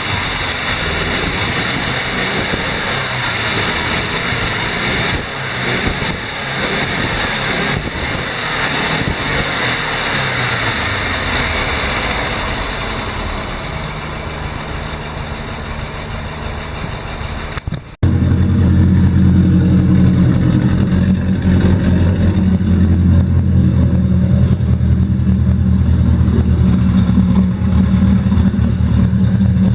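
Exhaust note of a 1986 Subaru GL-10 Turbo's turbocharged flat-four engine running. About 18 seconds in, it cuts to a second recording that is louder, with a steady deep note. The pair compares the stock exhaust with a custom-built 3-inch exhaust.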